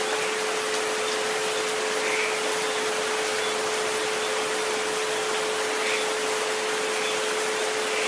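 Steady rain hiss with a continuous humming tone mixed in: the 432 Hz and 528 Hz sleep frequencies layered over a rain recording.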